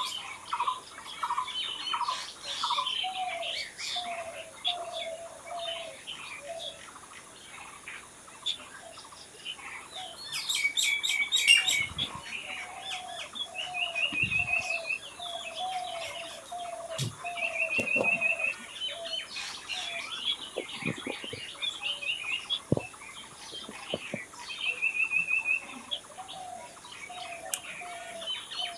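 Several wild birds singing together: a run of short whistled notes repeated about twice a second, a fast trill that comes back every few seconds, and a dense flurry of high chirps about ten seconds in, the loudest moment.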